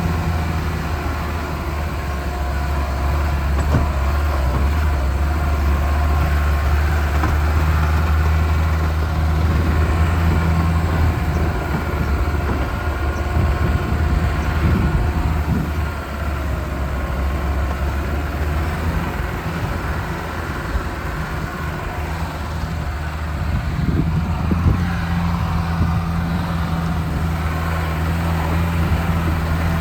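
Lada Niva engine running steadily while the vehicle drives, a low engine drone with road noise, the engine note shifting a little now and then.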